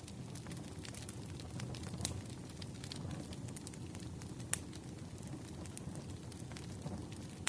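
Campfire burning: a steady low rumble with irregular sharp crackles and pops, one louder pop about halfway through.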